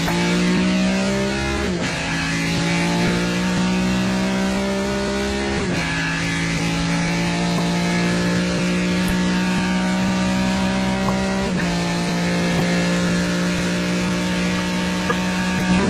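Ferrari 275 GTB's V12 engine running hard at high, nearly steady revs, with brief breaks in pitch three times, at about 2, 6 and 12 seconds.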